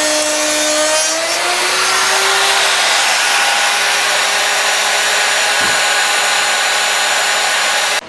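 Router milling a profiled edge along a wooden garage-door stile: a steady, loud motor whine with the noise of the bit cutting wood. The pitch rises a little about a second in, and the sound cuts off suddenly just before the end.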